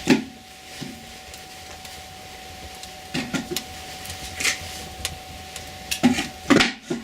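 Firewood crackling as it catches in a closed cast-iron firebox, with a handful of sharp cracks scattered through.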